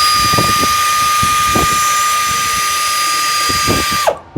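Power tool motor whirring at a steady high pitch while the tappet cover is being taken off, then winding down with a falling pitch about four seconds in.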